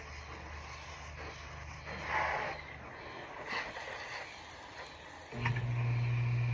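A motor starts abruptly about five seconds in and runs with a steady low hum. Before it there is quieter outdoor background with a brief sound about two seconds in.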